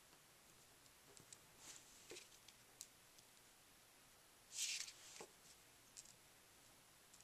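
Near silence with faint small taps and ticks of small craft pieces being handled on a tabletop, and a brief rustle about four and a half seconds in, as adhesive rhinestones are picked up and pressed onto a card.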